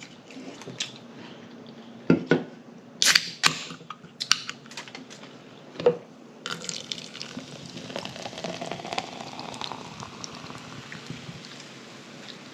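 A few sharp clicks, then Coke Zero poured into a glass from about six seconds in: a steady fizzing hiss, the pour's pitch rising as the glass fills.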